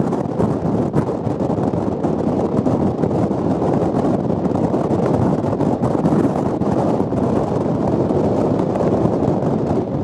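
Storm-force wind, over 80 mph, buffeting the microphone in a loud, steady rush.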